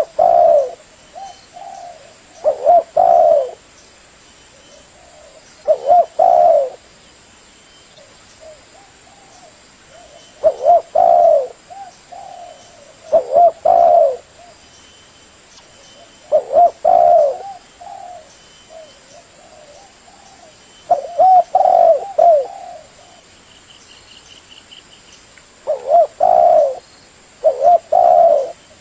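Spotted dove cooing: a repeated phrase of a few low, rolling coos, recurring about every five seconds, with faint high chirps of small birds between phrases.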